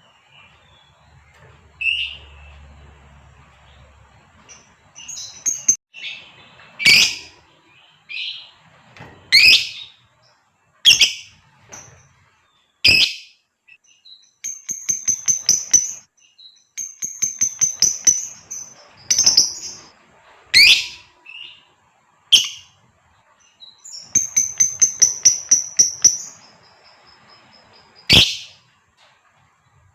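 Female lovebird calling: loud, sharp, shrill single calls, several times, between three runs of rapid, evenly spaced high chattering notes.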